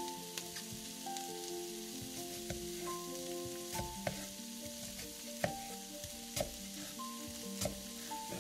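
Food sizzling in hot oil in a frying pan, with irregular sharp clicks and taps of stirring, the loudest a little past halfway. Soft background music of slow held notes plays underneath.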